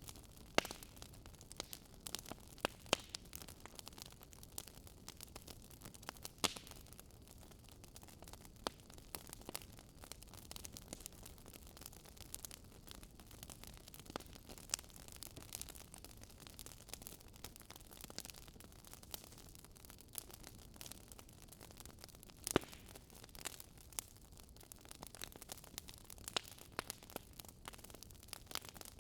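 Wood fire crackling: irregular snaps and pops, a few sharper ones, over a steady low hiss.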